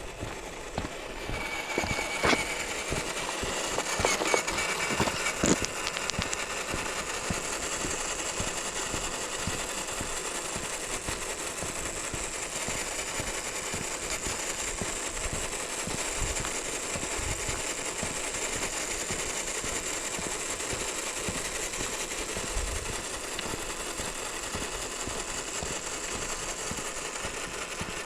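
RC4WD TF2 scale crawler truck driving, its electric motor and drivetrain giving a steady high whine, with a few sharp clicks in the first six seconds.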